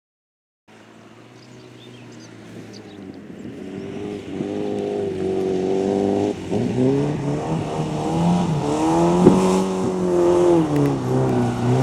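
Rally car engine approaching at speed and growing steadily louder, revving up and dropping in pitch several times as it shifts gear and lifts off. A single sharp crack about nine seconds in.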